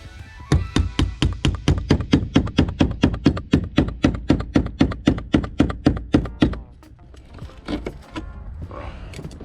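Rapid, even hammer blows on a knife driven along the side skirt's glue seam, about six or seven strikes a second, stopping about two thirds of the way through.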